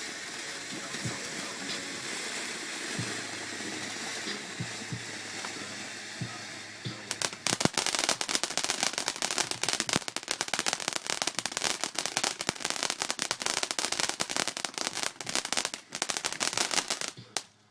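Fireworks: a steady hiss with a few scattered pops for about seven seconds, then dense, rapid crackling for about ten seconds that cuts off suddenly near the end.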